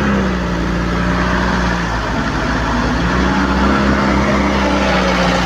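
Motor vehicle engine running steadily over a low rumble. Its pitch eases off about two seconds in and comes back up about a second later.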